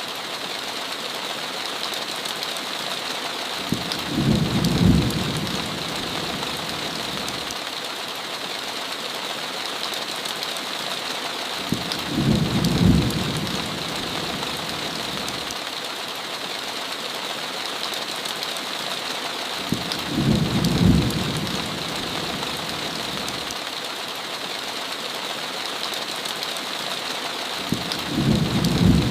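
Steady heavy rain hiss, with a short, low rumble of thunder about every eight seconds, four times in all. The thunder rumbles are the loudest moments.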